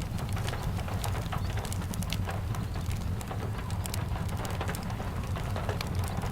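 Steady rain mixed with the irregular sharp crackles and pops of a wood fire, over a steady low rumble.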